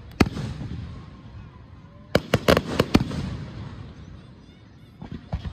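Aerial fireworks shells bursting: a sharp bang just after the start, a quick run of about five bangs between two and three seconds in, and fainter bangs near the end, each followed by a fading echo.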